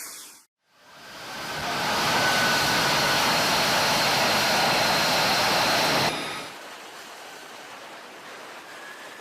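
Jet aircraft engines running with a steady rushing noise and a faint whine. The sound fades up after a short silent gap, cuts off abruptly about six seconds in, and gives way to quieter steady noise.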